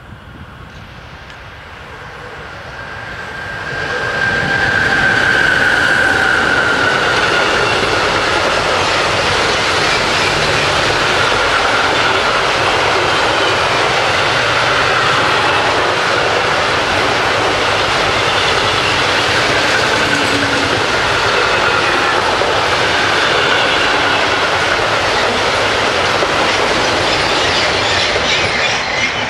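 A long freight train of steel hopper wagons passing close by, its wheels rumbling on the rails. The sound builds over the first four seconds as the locomotive arrives, with a high tone ringing briefly at that point. It holds steady while the wagons pass and drops away near the end as the last wagon goes by.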